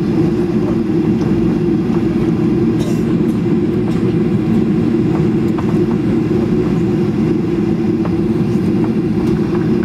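Boeing 737 cabin noise while rolling on the ground just after landing: a loud, steady low rumble of engines and wheels, with light ticks and rattles from the cabin.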